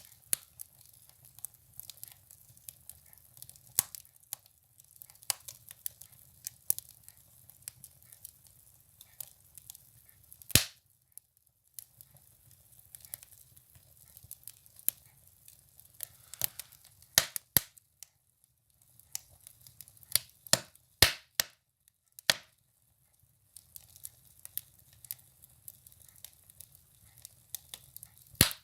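Firewood burning in a wood stove, crackling with irregular sharp pops, a few much louder snaps among them, over a faint low hiss.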